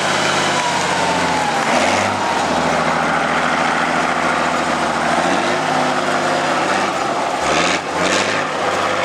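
Heavy off-road competition truck's engine working hard, its pitch falling, then climbing again and dipping once more as the driver comes off and back on the throttle.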